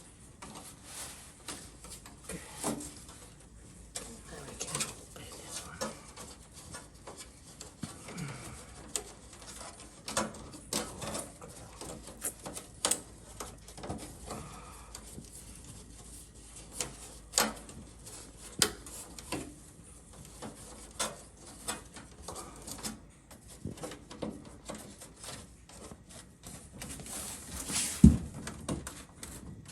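Irregular small clicks, taps and rubbing as parts are handled and fitted on an opened GE dryer, with one louder knock near the end.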